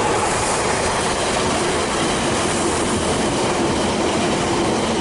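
A train running along the track: a steady rumble of wheels on rails with a faint sustained tone through the middle of it.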